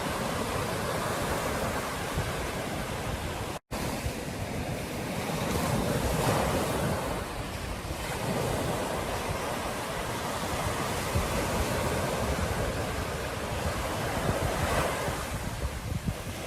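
Ocean surf washing steadily onto a beach, swelling louder a few times as waves come in, with wind buffeting the microphone. The sound cuts out for an instant about three and a half seconds in.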